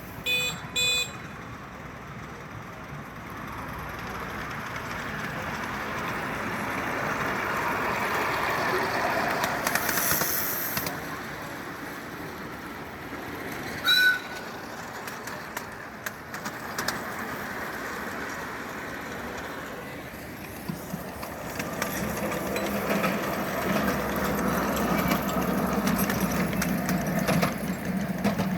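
Park railway train running, its noise swelling and fading twice, with two short whistle toots in the first second and a louder single toot about halfway through.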